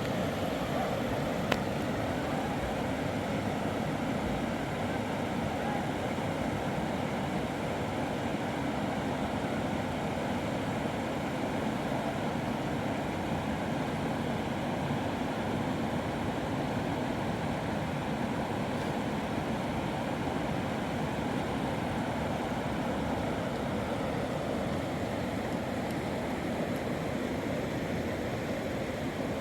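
Steady rushing of a flooded river's fast water, even and unbroken, with a single sharp click about a second and a half in.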